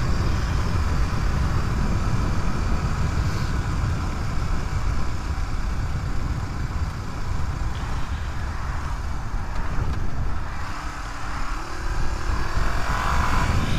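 Suzuki DR250S single-cylinder four-stroke engine running under way, mixed with a steady rush of wind noise on the move; the sound eases slightly about ten seconds in, then picks up again.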